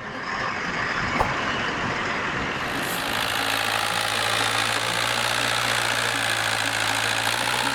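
A heavy vehicle's engine running steadily with a rushing noise over it, settling into a steady low hum about three seconds in. A single sharp click a little over a second in.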